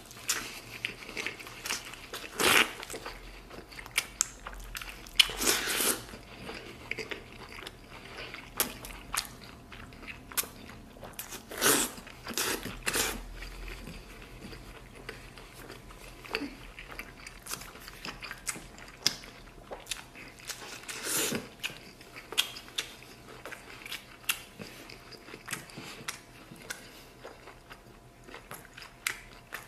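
A man biting meat off a braised beef rib and chewing it, with irregular wet chewing sounds, sharp clicks and a few louder bites.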